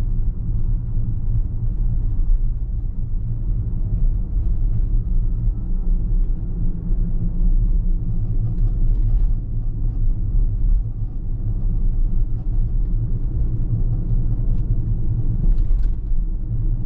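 Car on the move: a steady low rumble of road and engine noise, with a few faint light ticks.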